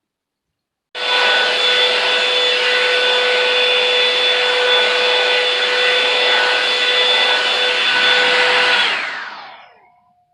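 Revlon One Step hair dryer brush switched on, its fan running loud and steady with a constant whine, then switched off about nine seconds in, the motor winding down with a falling pitch.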